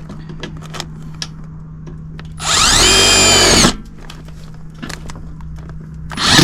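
Small power drill run in two bursts: a whine that climbs to speed and holds for about a second and a half, then a second run starting near the end. Light handling clicks between.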